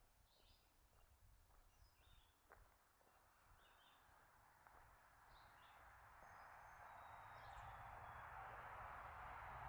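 Faint woodland ambience: songbirds giving scattered short chirps, with a few thin high whistles later on. A steady rushing hiss swells gradually over the second half and becomes the loudest sound.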